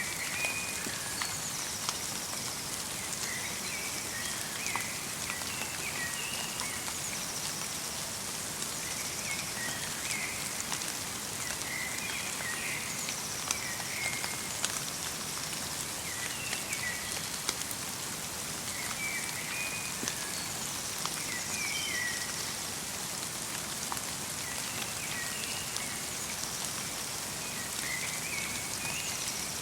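Steady light rain falling in a winter forest, with individual drops ticking among the hiss. Small birds give short chirping calls every few seconds, along with thin, high descending notes.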